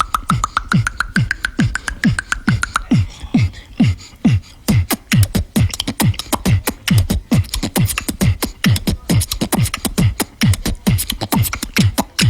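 Vocal beatboxing: a steady beat of deep kick sounds, each dropping in pitch, about two to three a second, all built from one mouth sound. Over the first few seconds a held, slowly rising hum sits over the kicks; after that, fast crisp hi-hat-like clicks fill in the beat.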